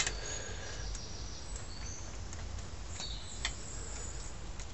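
Faint bird chirps over a low rumble, with a sharp click at the start and a lighter one about three and a half seconds in as a spark plug is worked out of the cylinder head by hand.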